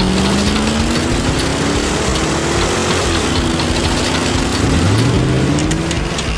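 Cartoon vehicle engine revving, its pitch climbing slowly for about three seconds, dropping back, then climbing again.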